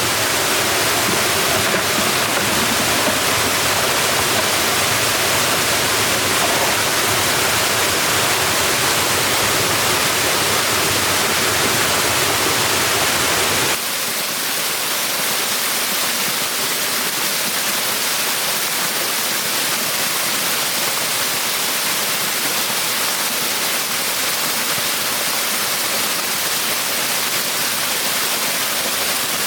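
Steady rushing water. About halfway through it changes abruptly, losing its low rumble and getting slightly quieter.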